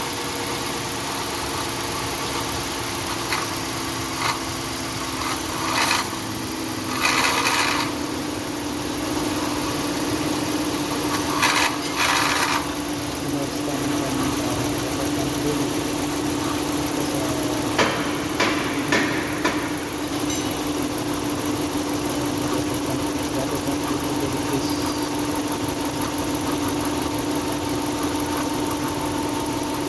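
5.7-litre Hemi V8 engine running steadily, with a steady hum that the owner takes for an abnormal noise from the water pump. Several short bursts of noise cut in around 6, 12 and 18 seconds in.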